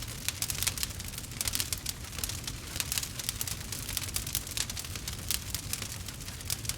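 Campfire crackling: a dense run of small sharp pops and snaps over a low steady rumble.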